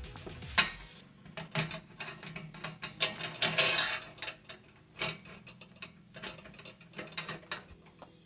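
Irregular metallic clicks and clinks of Alaskan chainsaw mill hardware being handled and fitted, with a short scraping rush about three and a half seconds in.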